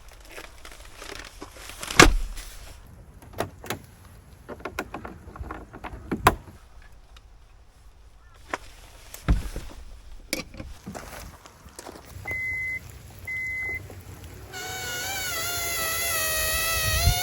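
Scattered knocks and clicks of gear being handled, then two short beeps and the electric motor whine of a Kia Carnival's power door starting to move, about three seconds before the end.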